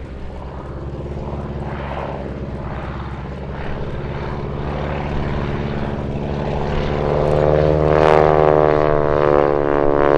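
Boeing Stearman biplane with a 450-horsepower radial engine and propeller, running steadily in display flight. It grows louder about seven seconds in as the aircraft comes closer.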